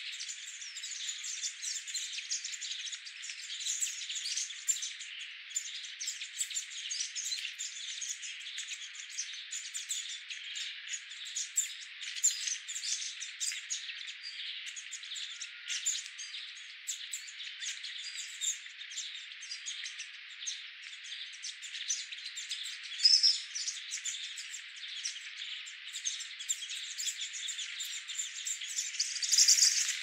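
Small birds chirping and calling in a dense chorus of short, high chirps, with now and then a louder call standing out.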